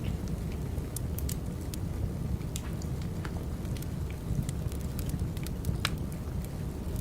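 Wood fire burning: a steady low rumble of flames with irregular sharp crackles and pops from the burning logs, several a second, one louder pop near the end.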